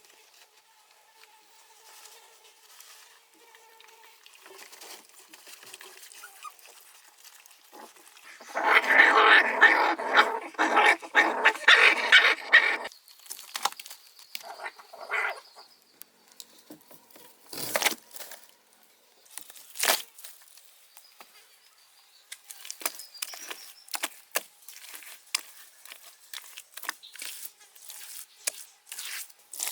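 Puppy crying in a quick string of whines and yelps for about four seconds near the middle, with fainter cries before it. Scattered sharp knocks and small crackling or rustling sounds follow.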